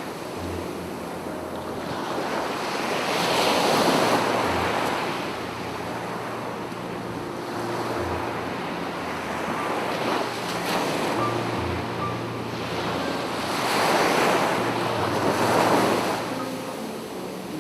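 Ocean surf breaking on a beach, swelling to two big crashes about eleven seconds apart, with wind on the microphone.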